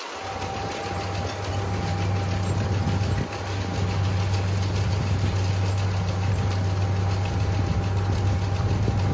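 Farm tractor engine running steadily with a constant thin whine above the low hum, growing louder about a second and a half in.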